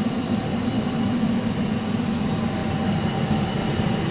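Steady low background hum with a few faint steady higher tones, typical of a building's air conditioning or ventilation.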